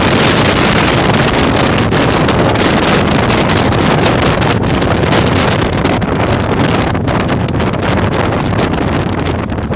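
Heavy wind noise buffeting the microphone on a moving Yamaha Virago 1100 motorcycle, with the bike's engine low underneath. The rush eases slightly near the end.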